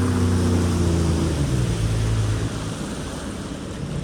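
Yamaha jet ski engine easing off, its pitch falling steadily for about two and a half seconds before it drops to a lower, quieter running. Water and wind noise rush underneath throughout.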